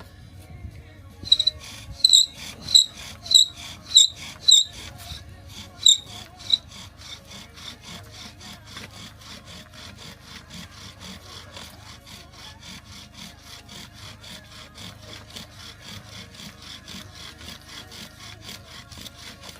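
Bow drill for fire by friction: the wooden spindle is worked back and forth in the hearth board. It starts with a handful of loud, squeaky strokes about half a second apart, then settles into quicker, steadier, quieter strokes.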